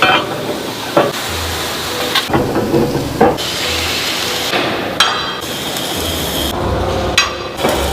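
Hammer blows on steel during the bucket's restoration: several separate strikes about a second or more apart, over shifting workshop noise that changes abruptly between edited shots.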